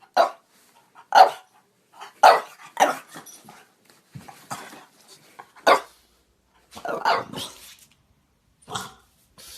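French bulldog barking: a string of short, sharp single barks about a second apart, with a longer bark about seven seconds in.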